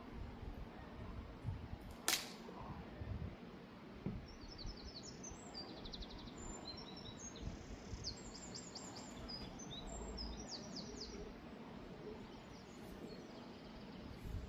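Outdoor ambience with a small bird chirping in quick high trills through the middle, a single sharp click about two seconds in, and a low rumble of wind on the microphone.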